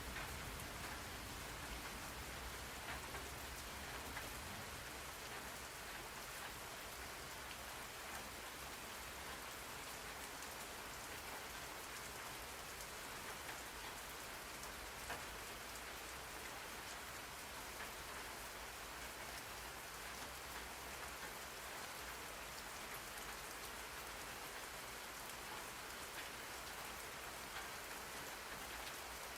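Steady rain falling on a surface, a continuous hiss flecked with the patter of individual drops.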